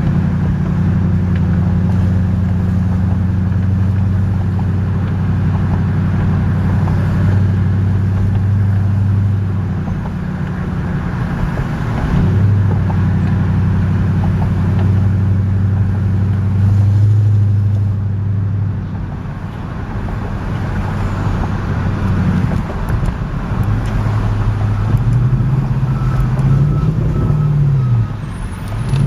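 2001 Audi S8's V8 engine driving with its exhaust separated between the catalytic converters and the mufflers, so the mufflers are bypassed: a loud, low exhaust drone. It holds steady for long stretches, eases off about eighteen seconds in, and rises and falls in pitch near the end.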